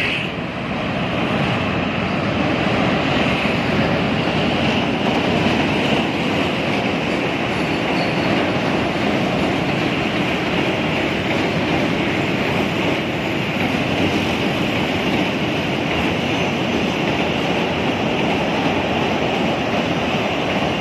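Passenger train carriages running across a steel truss railway bridge: a steady, continuous noise of wheels on rails.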